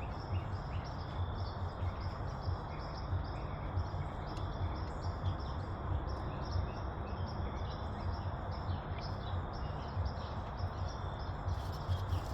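Outdoor ambience: a steady low rumble and noise with a continuous run of short high chirps from small animals.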